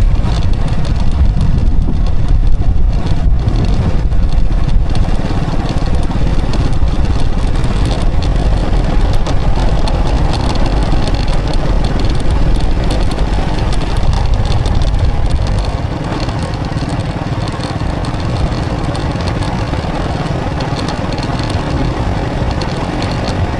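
Motorbike riding along a road, its engine running under a steady low rumble of wind and road noise. The rumble eases about two-thirds of the way through.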